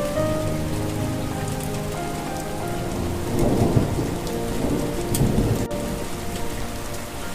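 Steady rain falling with rumbles of thunder, the loudest about three and a half and five seconds in, under a soft melody of held notes.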